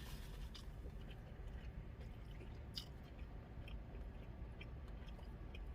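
Person chewing a crisp-shelled birria taco close to the microphone: faint wet chewing with scattered small crunches and clicks, one a little sharper near the middle.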